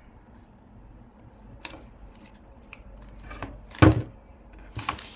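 Paper craft pieces being handled and pressed together on a tabletop: scattered light taps and rustles, with one sharp knock about four seconds in.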